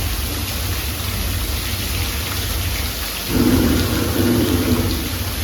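Steady rain falling, with a low rumble underneath. A humming tone joins a little past three seconds in and fades out about a second and a half later.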